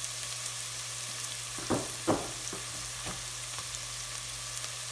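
Minced onion, garlic and hot pepper sizzling in oil in a pot, a steady hiss over a low hum. About two seconds in come a few short scrapes of a wooden spoon against the pot.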